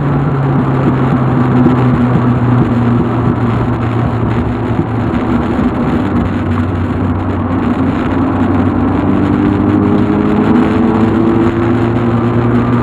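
Volkswagen Golf Mk2's engine running as the car is driven along, with road noise. Its note eases down over the first half, then climbs again in the second half as the car picks up speed.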